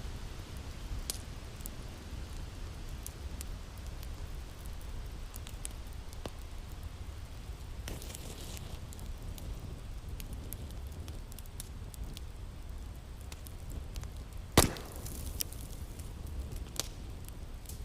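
Wood fire crackling in a fireplace: a low steady rumble with scattered small pops and snaps, and one much louder pop late on.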